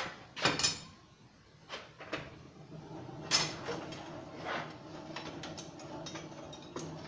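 A few scattered knocks and scrapes of steel pieces being set down and picked up. A low steady hum comes in about two seconds in.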